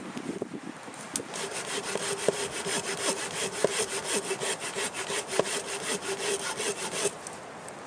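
Hand saw cutting dry, dead pine wood in quick, even strokes. It starts about a second in and stops about a second before the end.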